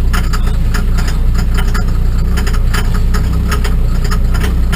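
Mercedes OM603 straight-six turbo-diesel in a GMC CCKW 6x6 truck running steadily with a low drone, with sharp clicks repeating several times a second over it.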